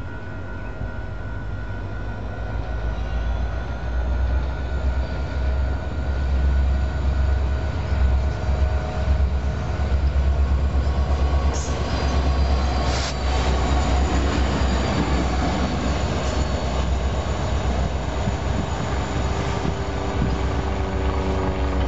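A pair of Union Pacific diesel locomotives running past. The deep engine rumble builds over the first several seconds and then holds steady and loud, with a thin, high squeal from the wheels on the rail partway through.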